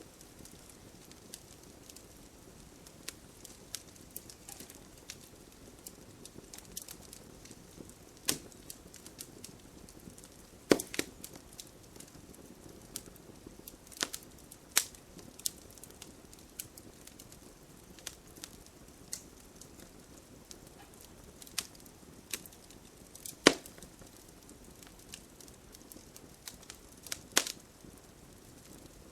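Campfire burning, wood crackling with scattered sharp pops over a faint hiss; a few louder snaps stand out.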